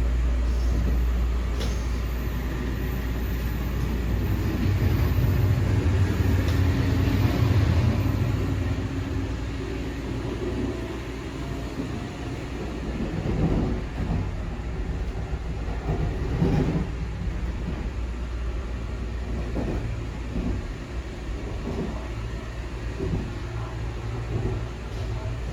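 Taiwan Railway EMU3000 electric train running, a steady low rumble that swells louder a few seconds in, with scattered knocks and rattles later on.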